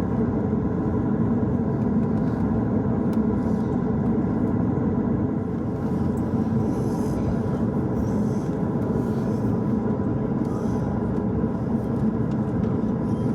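Steady low rumble of an Airbus A220-300's cabin, with a thin steady whine running through it.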